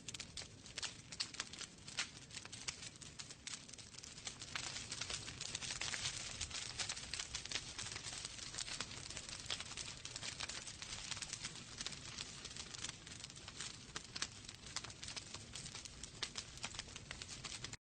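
Wood fire crackling in a fireplace: many quick irregular snaps and pops over a soft hiss, densest a few seconds in, cutting off suddenly at the very end.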